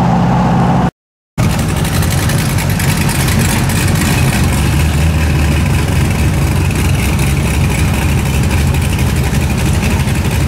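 Vehicle engine running steadily under road noise while driving. It drops out for a moment about a second in, then resumes.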